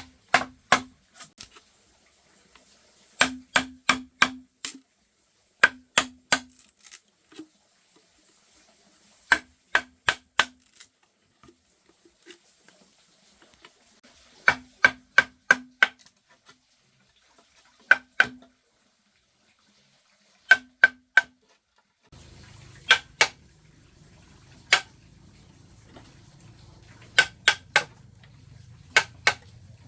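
A hand tool striking bamboo: sharp, ringing knocks in quick groups of two to five, a few seconds apart. A low steady hum joins about two-thirds of the way through.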